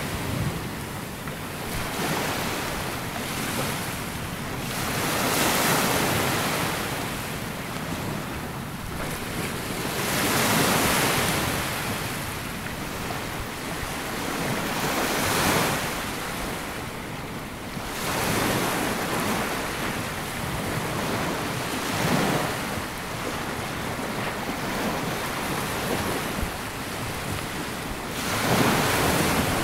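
Small sea waves breaking and washing up a sandy beach, one swash every few seconds, with a steady hiss between them and some wind on the microphone.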